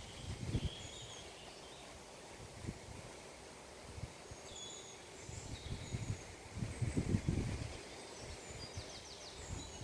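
Rural outdoor ambience with small birds chirping now and then and a short rapid trill near the end, over a low, uneven rumble.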